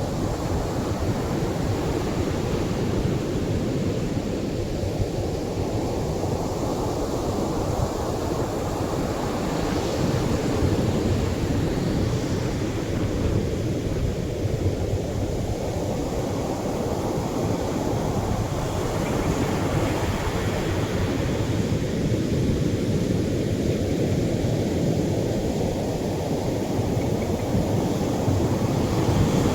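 Gentle Atlantic surf washing onto a beach in a steady rush, swelling each time a wave breaks, roughly every nine seconds.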